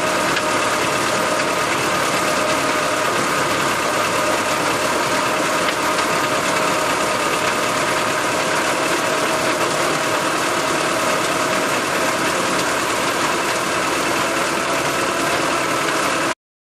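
Massey Ferguson tractor engine running steadily, with a steady whine over it; the sound cuts off suddenly near the end.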